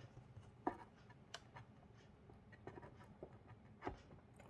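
A few faint, scattered clicks and taps as hands push on the metal tabs of the monitor's PCB housing.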